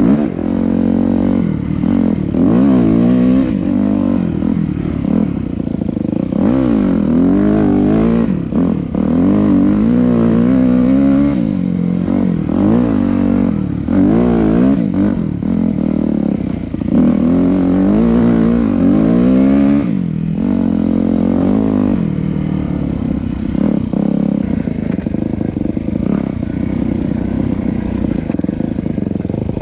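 Yamaha YZ250F four-stroke single-cylinder dirt bike engine being ridden, revving up and dropping back again and again as the throttle is worked, with a steadier engine note over the last several seconds.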